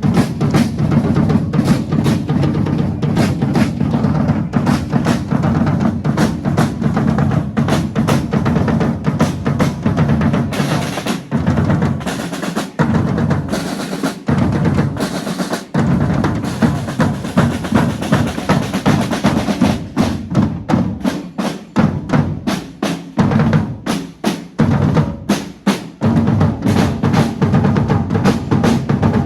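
Drums playing: dense, rapid snare rolls and beats over bass drum.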